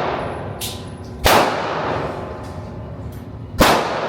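Two gunshots at a shooting range, about two and a half seconds apart, each a sharp crack followed by a ringing tail.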